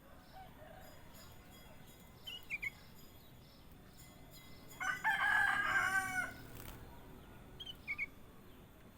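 A rooster crowing once, for about a second and a half, near the middle. Before and after it comes a short, high two-note bird chirp falling in pitch, once about two seconds in and again near the end.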